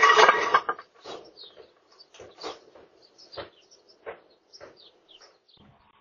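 A loud, noisy clatter that cuts off less than a second in. Then small birds chirp in short calls, some gliding down in pitch, with scattered light knocks between them.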